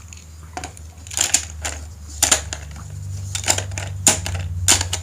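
Sharp clicks and clacks of a plastic Hot Wheels playset and toy cars being handled, about seven spread over a few seconds. A low steady hum comes in about halfway through.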